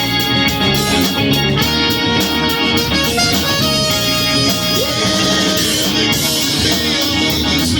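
Live rock band playing an instrumental passage without vocals: guitar over bass and a steady drum beat.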